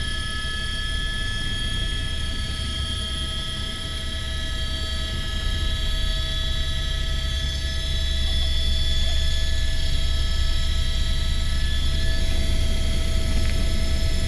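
Helicopter's turbine engine and rotor running: a steady deep rumble with a constant high whine, growing louder a little over halfway through.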